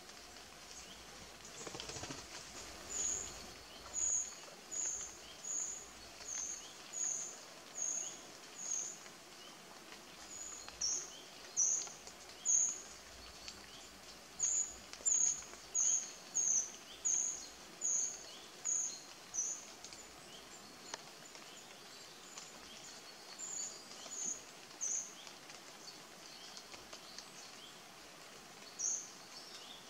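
A bird calling: a high, thin note repeated about once every three-quarters of a second, in runs of several notes with short pauses between them.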